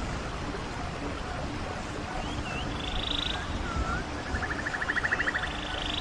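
Running stream with songbirds calling over it. Twice, a few short curved whistles lead into a fast buzzing trill, the second trill lower and then higher in pitch.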